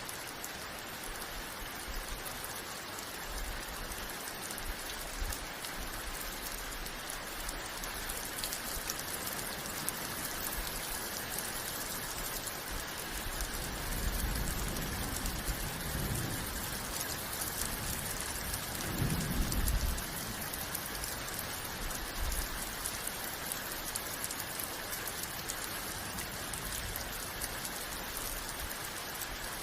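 Steady heavy rain falling, an even hiss. Two low rumbles of thunder come through it about halfway in, the second a few seconds after the first and a little louder.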